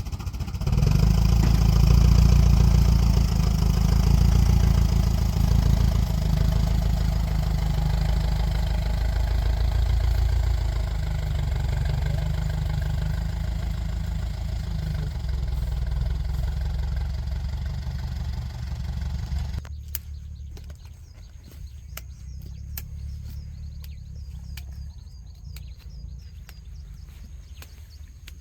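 A motor vehicle's engine running steadily, loud from about a second in and easing slightly over time, then cutting off suddenly about two-thirds of the way through. After that, quieter outdoor sound remains, with scattered light clicks and a thin, steady high-pitched whine.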